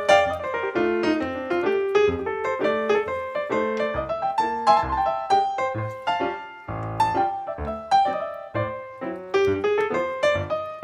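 Background piano music, a steady stream of notes and chords played at an even pace.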